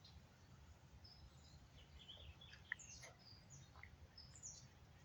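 Faint birds chirping with short scattered calls over a low steady outdoor rumble, with one brief sharp click near the middle.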